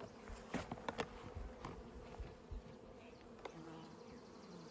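Honeybees buzzing around a hive in a steady hum, with a few light clicks and knocks in the first second or two.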